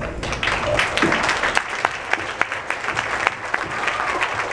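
Audience applauding, with the clapping breaking out just after the start.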